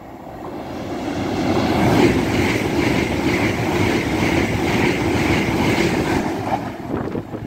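LNER Azuma high-speed train passing through the station at speed. A rush of noise builds over the first couple of seconds as it arrives, then holds loud and steady as the coaches go by.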